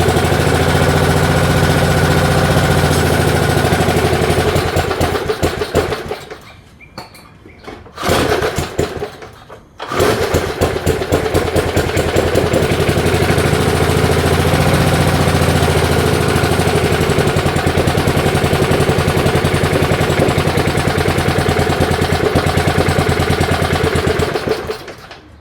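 Small single-cylinder engine of a 1978 Allis Chalmers push mower running on carburetor cleaner sprayed into the carburetor. It dies about six seconds in, fires briefly, dies again, then starts and runs steadily until it cuts out near the end. The owner suspects the carburetor's old diaphragm is not drawing fuel.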